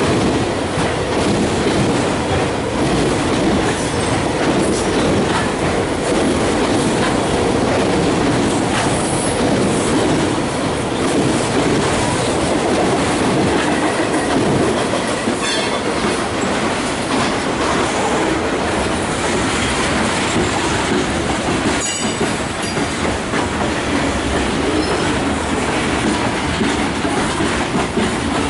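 Freight train of autorack cars rolling past at speed: a steady rumble of steel wheels on rail, with clickety-clack over the joints and a few sharper clicks about halfway and two-thirds of the way through.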